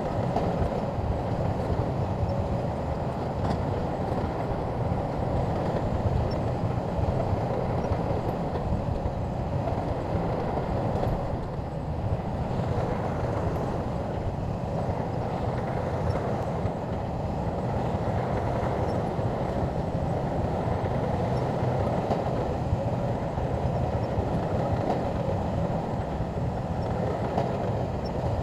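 Shantui bulldozer working: its diesel engine and steel tracks running steadily, with no pauses.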